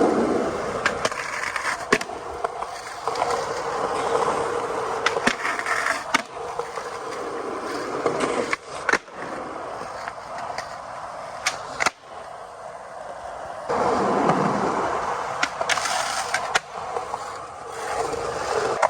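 Skateboard wheels rolling steadily over pavement, the rolling noise swelling and easing, with sharp clicks and knocks now and then.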